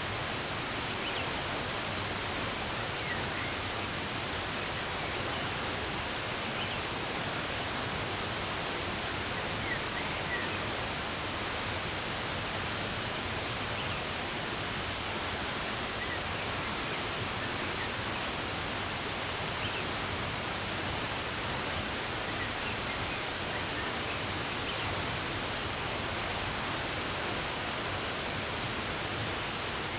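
Running water rushing steadily, with faint, brief bird chirps scattered over it.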